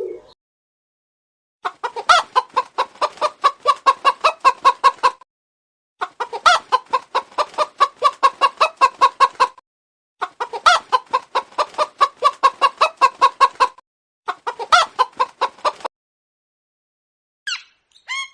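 Chicken clucking in rapid runs of about six clucks a second, in four bouts with short pauses between them, followed by a few brief high calls near the end.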